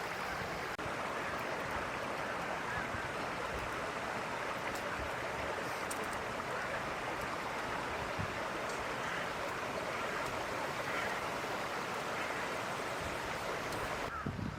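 Steady rushing water: an even, continuous splashing hiss with no distinct strokes.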